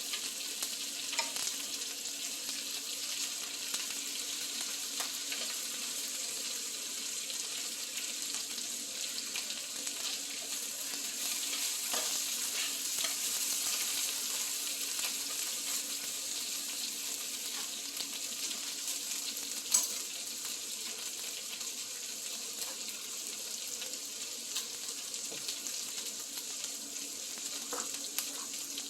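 Duck meat frying in its fat on a pan: a steady sizzling hiss with scattered small pops, and one sharper pop or click about twenty seconds in.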